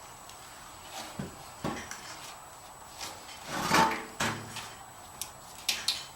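A steel VW fuel tank being turned and rolled by hand to spread liquid sealer inside: a series of irregular knocks and clunks, the loudest about halfway through with a short ring.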